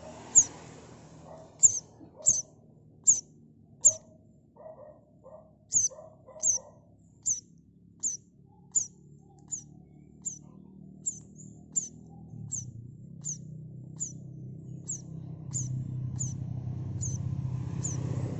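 A bird chirping over and over: short, high, falling chirps about one every two-thirds of a second, with a few lower calls mixed in between about four and seven seconds in. A low hum grows in under the chirps during the second half.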